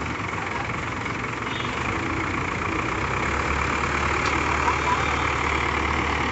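Heavy vehicle engine running steadily, a low drone under a broad hiss, growing slightly louder about halfway through.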